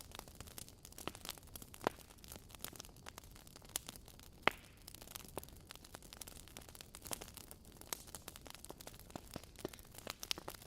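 Wood fire crackling: irregular pops and snaps over a faint hiss, with one louder pop about four and a half seconds in.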